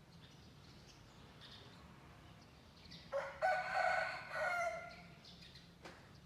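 A rooster crows once, about halfway in, a call of roughly two seconds in several linked parts, with faint small-bird chirps in the background.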